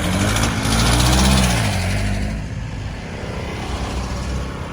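A motor vehicle passes close by, its engine and tyre noise swelling to a peak about a second in and then fading, over steady road traffic noise.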